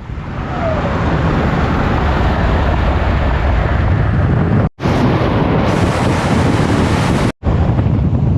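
Wind buffeting the microphone over the steady rumble of a vehicle driving at highway speed. It cuts out briefly twice, at about five and seven seconds in.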